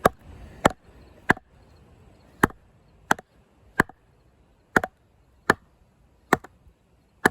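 Wooden baton striking the spine of a Condor Heavy Duty Kukri, a thick carbon-steel blade, to drive it down into a hard log to split it. About ten sharp knocks, roughly two-thirds of a second apart, with one longer pause after the third.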